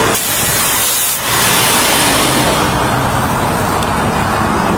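Steady rushing noise of highway traffic going by, tyre and engine noise without a break.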